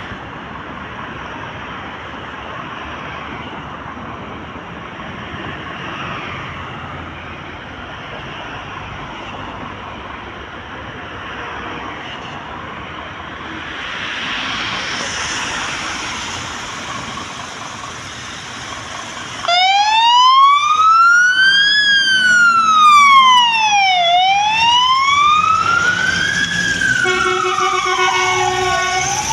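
Scania P360 fire engine responding on an emergency call: after a stretch of road and engine noise, its electronic siren switches on suddenly about two-thirds of the way in and wails, slowly rising and falling. A short, steady air-horn blast sounds over the siren near the end.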